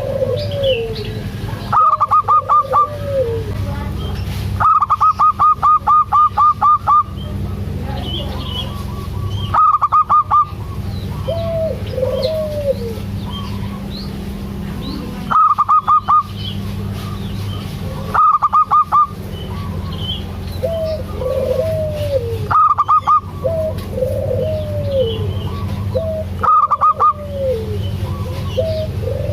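Zebra doves (perkutut) singing: about seven loud bursts of rapid staccato notes, each a second or two long, with softer arched coos in between, over a steady low hum.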